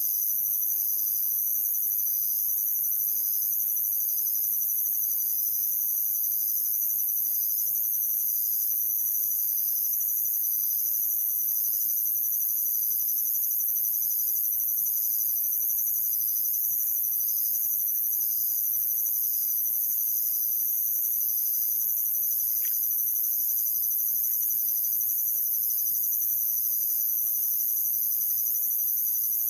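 Chorus of night insects: a steady, very high-pitched trill with a lower chirp pulsing about once a second over it.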